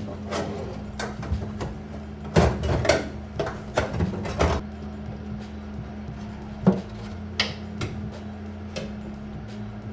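Irregular knocks and clanks of tools and sheet-metal panels being handled during bodywork, several in quick succession about a third of the way in and a sharp single one past the middle, over a steady low hum.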